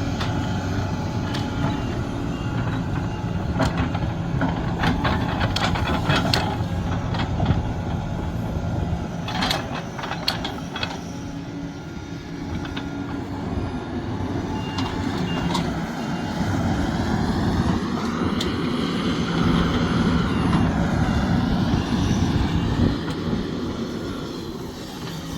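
Sumitomo SH370LHD-6 excavator working: the diesel engine runs steadily under load. A string of knocks comes in the first half, and a hydraulic whine rises and falls near the end.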